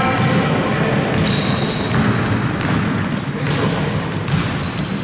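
Indoor basketball game: a basketball bouncing on the court, several short high-pitched sneaker squeaks, and a steady hubbub of voices in the hall.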